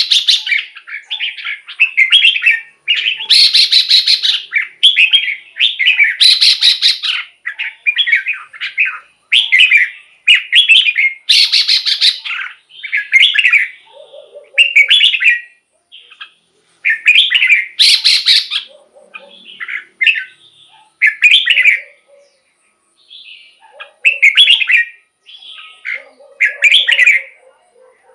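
Red-whiskered bulbul singing short, loud whistled phrases one after another, every second or two, with some phrases noticeably louder and harsher.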